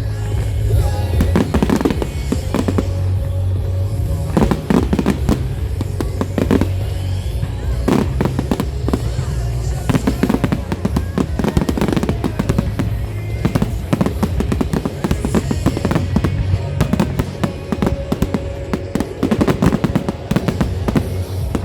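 A fireworks display: a dense run of bangs and crackling bursts, one after another, over loud music with a heavy bass.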